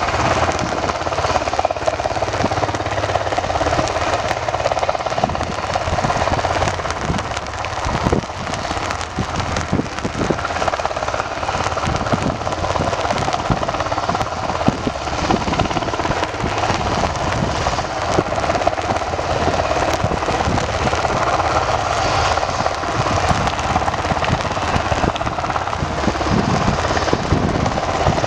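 UH-60 Black Hawk helicopter running close by: loud, steady turbine and rotor noise with irregular crackling throughout.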